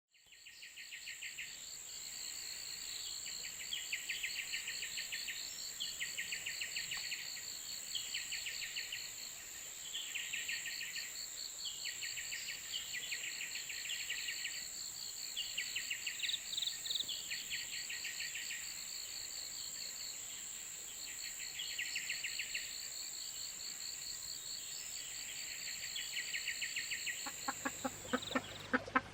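Insects calling in tropical forest: a steady high whine under repeated trills of rapid chirps, one trill every second or two. Near the end a different run of lower, evenly spaced calls begins.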